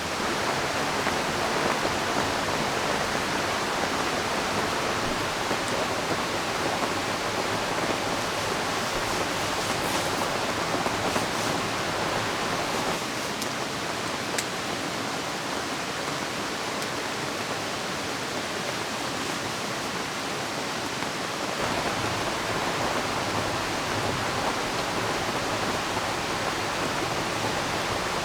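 Steady rushing of a river mixed with rain falling, an even wash of water noise. Its tone shifts slightly about halfway through and again near the end.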